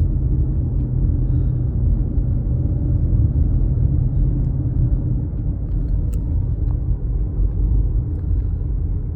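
Steady low rumble of a car driving at road speed, road and engine noise heard from inside the cabin.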